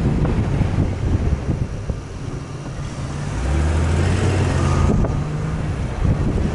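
Off-road vehicle engine running, with wind buffeting the microphone; the engine note comes up steady and louder for about a second and a half midway through.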